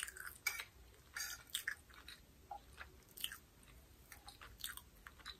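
Faint chewing: a person eating with the mouth close to the microphone, heard as irregular small mouth clicks and crackles.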